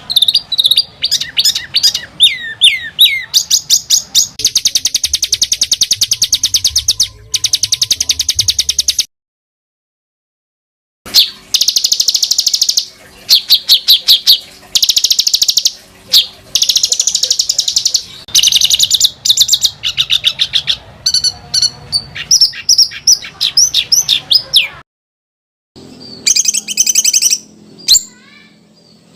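Recorded songbird calls spliced together: fast, tight, harsh trills and chattering rolls alternating with quick falling whistled notes. The sound cuts to dead silence for about two seconds around a third of the way in, and again briefly near the end, where clips are joined.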